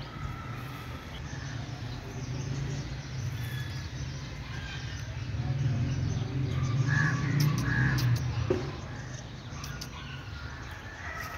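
Birds calling, with short calls scattered through and a cluster about seven seconds in, over a low steady rumble that grows louder around the middle.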